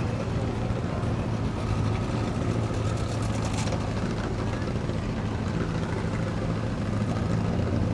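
An engine idling steadily with a low, even hum, and a brief clattering rattle about three seconds in.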